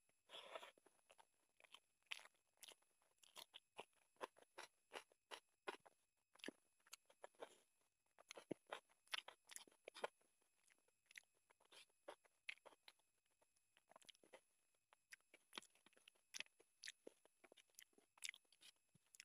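Faint, close-up eating sounds of curry and rice eaten by hand: chewing with wet clicks and smacks of the mouth and fingers, several a second at an irregular pace.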